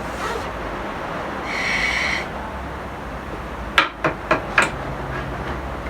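Four sharp knocks in quick succession, about a quarter second apart, a little past halfway, after a brief high-pitched tone near the start, over a steady background hum.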